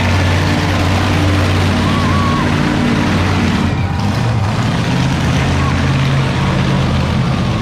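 A monster truck's big engine running steadily at a low rumble, its pitch shifting a little about four seconds in.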